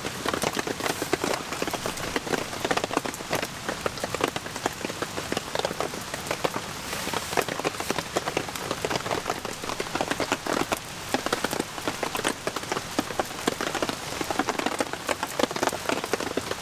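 Heavy rain, a downpour, with a dense mass of sharp drop hits close by.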